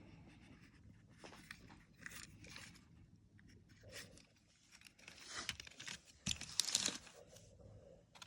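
Small rustling and scraping handling noises, like die-cast toy cars and a plastic carrying case being picked up and moved about, loudest about five to seven seconds in.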